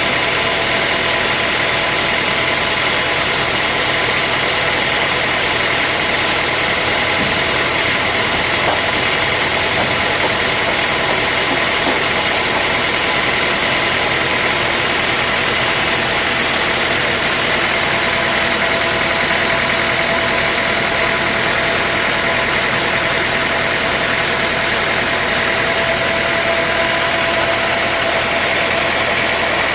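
Sawmill machinery running steadily, a loud, even engine-like drone with a constant whine.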